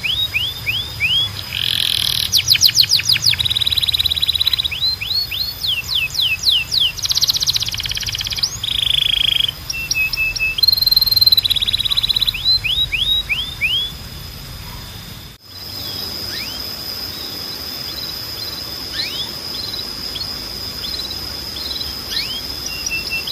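Timbrado canary singing: fast runs of repeated down-slurred notes and buzzing trills for about fourteen seconds. After a sudden break the song thins to a few scattered chirps over a thin, steady high tone.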